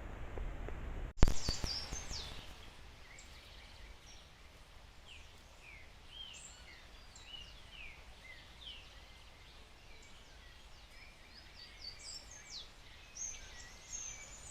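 Forest birds calling: many short, high whistled notes that slide downward, overlapping and growing busier near the end. A low hiss fills the first second, cut off by a sharp click.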